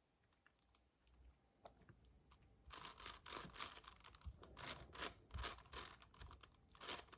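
Magnetic 7x7 Rubik's cube being turned while pairing its edges. It is nearly silent at first with a few faint clicks, then about two and a half seconds in comes a quick run of clicking layer turns, several a second.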